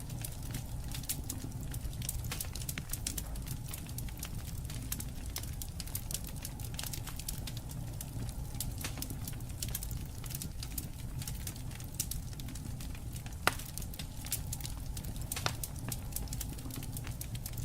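Wood campfire burning, crackling steadily over a low rumble of flame, with two sharper pops about three-quarters of the way through.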